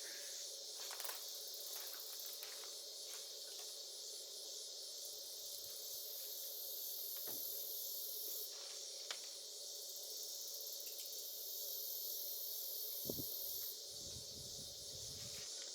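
Outdoor insect chorus: a steady high chirring, with a faster pulsing layer higher up that fades in and out. A few faint knocks and clicks from handling are heard.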